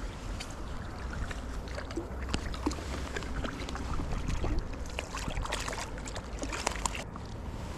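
Water lapping and trickling around a paddle board, over a steady low rumble, with scattered small clicks and taps that grow denser in the second half.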